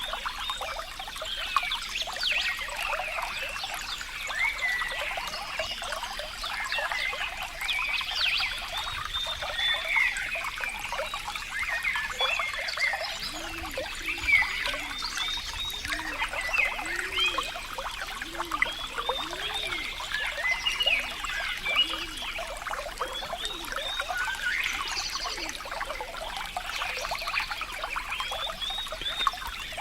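Water trickling and burbling steadily, with many short bright plinks and bubbling chirps. For several seconds in the middle, a run of low gurgling notes repeats.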